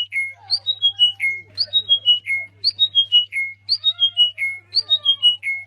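Songbird singing the same short whistled phrase about once a second, five times over: a high note, then a quick run of notes stepping down in pitch, ending on a lower held note.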